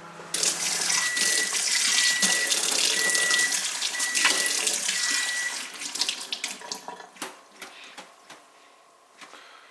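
Tap water running into a sink as espresso-maker parts are rinsed under it, with a thin whistle coming and going; the water is turned off about six seconds in, leaving a few light clinks.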